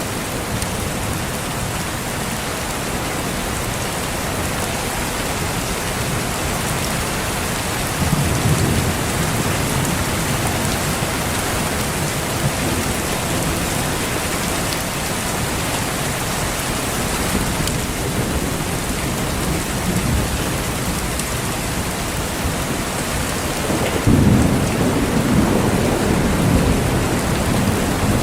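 Thunderstorm: steady heavy rain, with low rolls of thunder about eight seconds in and again, louder, near the end.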